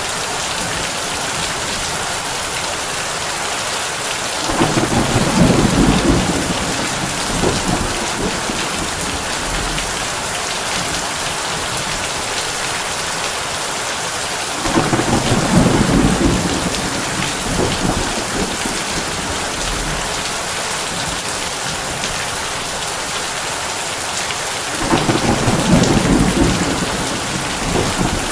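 Heavy rain falling on a tin roof, a steady hiss, with three low rolls of thunder about ten seconds apart, each lasting a couple of seconds.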